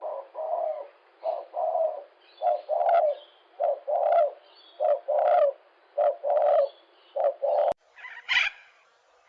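A bird calling in a steady run of short calls that come in pairs, about one pair a second. Near the end a sharp click is followed by a different, higher call.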